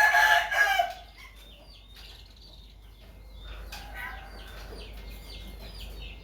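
Birds calling: a loud, harsh cry in the first second, then many short high calls repeated over and over.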